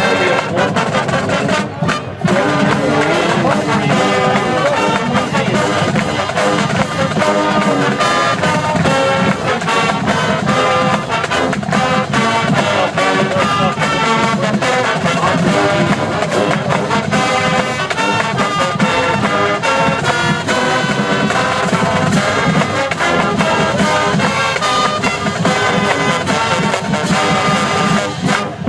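A marching band playing a brass-led tune, trumpets and trombones to the fore, continuously and loudly.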